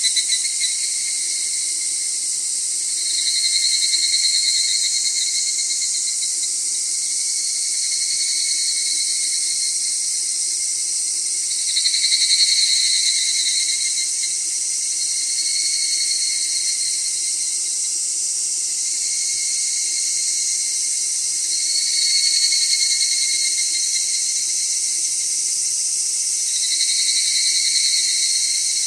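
Summer insect chorus: a steady high-pitched shrilling, with a lower buzzing call that swells in and fades out for a second or two every few seconds.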